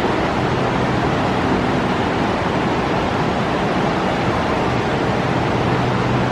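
Steady rushing roar of the Niagara River's fast water in the gorge below, an even noise that holds level throughout.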